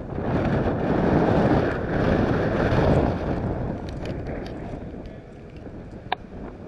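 Wind buffeting the microphone in a gust that swells over the first few seconds and then dies down, with a single sharp click about six seconds in.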